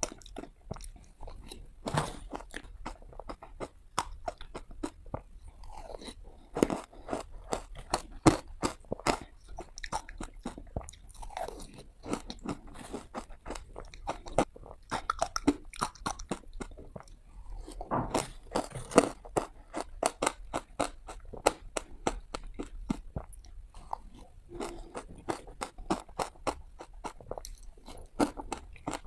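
Close-miked ice being bitten and crunched between the teeth: a dense run of sharp cracks and crackles, with a few short pauses between mouthfuls.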